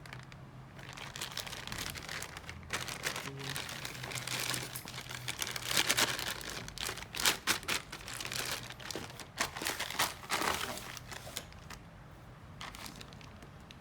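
Plastic or paper packaging crinkling and rustling as it is handled and opened, in a run of irregular crackles that eases off about eleven seconds in.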